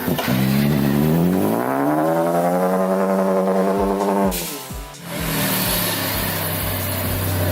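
Car engine accelerating: its note rises over the first couple of seconds and holds, then falls away about four seconds in, and the engine runs on at a lower, steadier pitch. Background music with a steady beat plays underneath.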